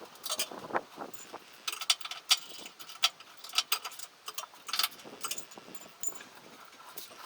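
Irregular metallic clinks and clanks of tools and engine parts being handled and set down during engine work, a dozen or so sharp hits with some ringing.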